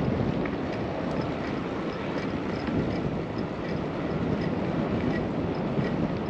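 Steady wind rush over the microphone and tyre noise from a bicycle being ridden, with faint light ticks repeating a few times a second.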